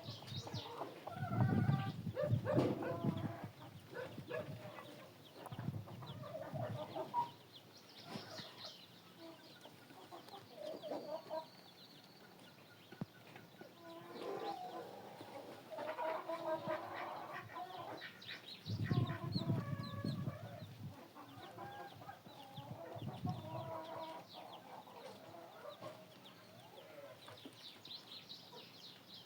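Chickens clucking on and off in short calls, with a few low rumbles in between.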